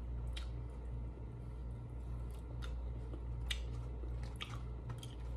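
Close-up chewing of a fried chicken wing: soft, wet mouth clicks scattered at irregular intervals, over a steady low hum.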